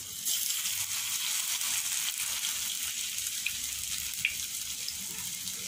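Batter-coated pointed gourd (potol) pieces sizzling in hot mustard oil in a frying pan: a steady hiss with a couple of small pops, starting just after the pieces go into the oil.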